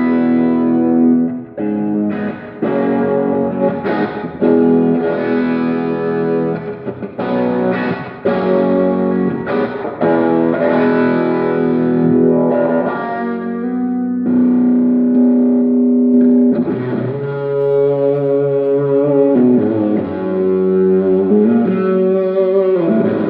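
Overdriven electric guitar through effects, playing held chords and notes with picked attacks, with sliding pitch bends near the end.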